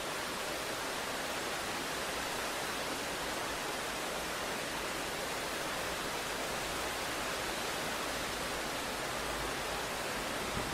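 Steady, even hiss of heavy rain, with no rise or fall in level.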